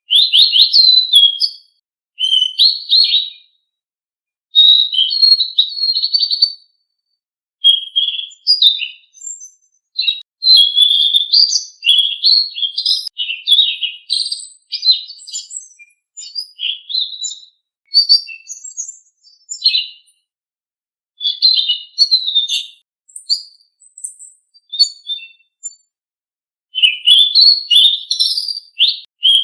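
Selendang biru songbird singing rapid, high twittering phrases of quick chirps in bursts, separated by short pauses, with a longer pause a few seconds before the end.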